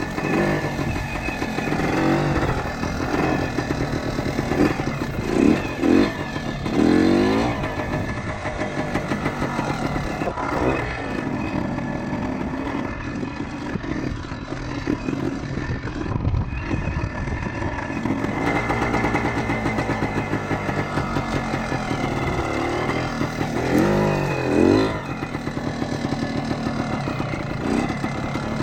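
1976 Kawasaki KT250 trials bike's two-stroke single-cylinder engine running while being ridden, its pitch rising and falling with the throttle, with a few quick revs in the first several seconds and again near the end.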